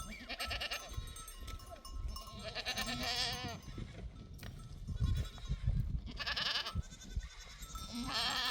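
Goats bleating, about four separate quavering bleats, one after another.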